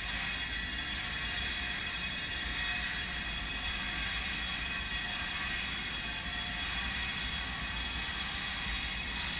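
Power grinder cutting or grinding stone, a steady high-pitched whine with hiss that runs unbroken.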